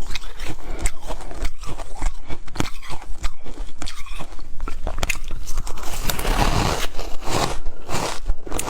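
Ice being bitten and chewed close up: a rapid run of sharp, crackling crunches, thickening into a denser burst of crunching about six seconds in.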